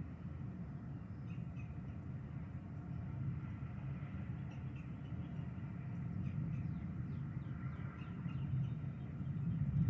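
Outdoor ambience ahead of a thunderstorm: a steady low rumble with faint, scattered bird calls.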